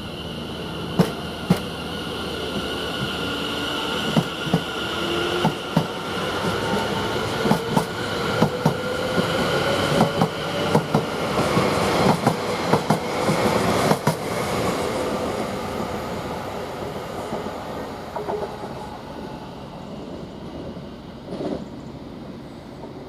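Class 720 electric multiple unit pulling away from the platform, accelerating: a whining traction-motor tone rising slowly in pitch, with the wheels clicking over rail joints in quick pairs. It then fades into the distance over the last several seconds.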